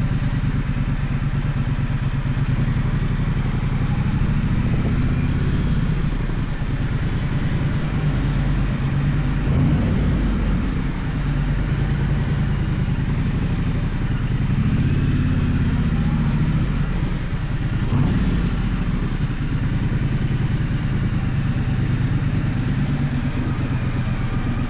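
Gaokin GK1200 motorcycle engine running on the move, its note rising and dropping a few times as the revs change.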